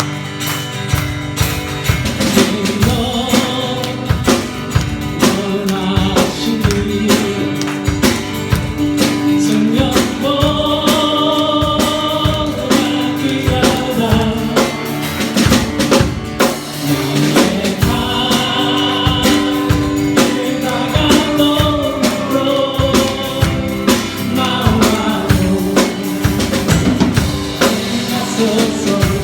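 Church praise band playing a gospel worship song: sung melody over a steady drum kit beat.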